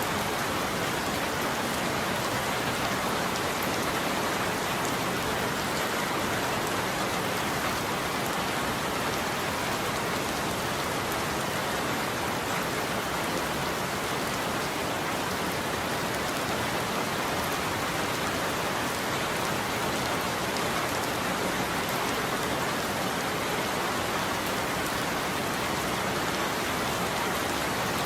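Steady, unbroken rain falling on a roof, with no thunder.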